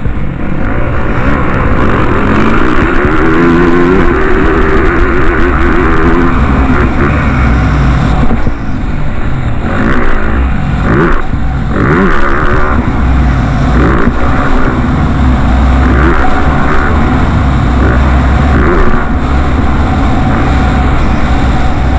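Motocross bike engines revving hard, the pitch climbing and dropping again and again as the bikes accelerate and shift.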